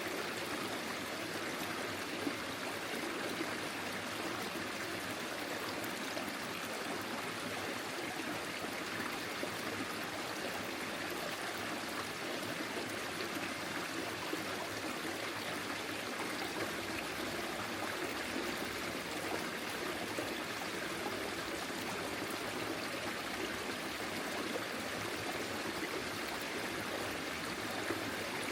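A small forest stream flowing steadily over stones, an even rushing and trickling of water.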